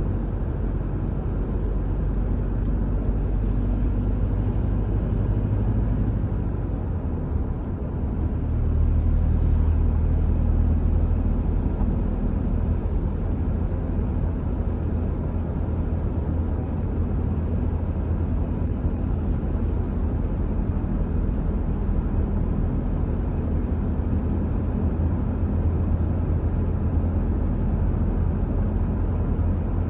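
A car driving at a steady speed: a low, steady rumble of road and engine noise, getting a little louder about eight seconds in.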